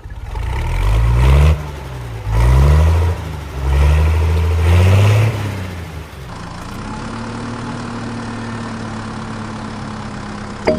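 A motor vehicle's engine revved three times, its pitch rising with each rev, then settling into a steady idle about six seconds in.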